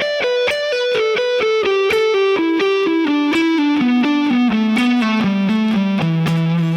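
Electric guitar playing a rapid descending E minor pentatonic sequence of 15-to-12th-fret pull-offs, moving down string by string. It ends on a held low 12th-fret note, sustained with vibrato, from about six seconds in.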